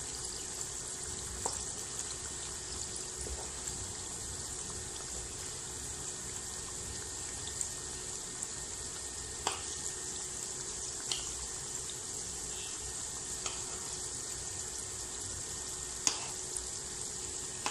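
Kakrol (spiny gourd) and potato strips sizzling steadily in hot oil in a karai. A few light clicks of a metal spoon against the pan are heard as the pieces are turned.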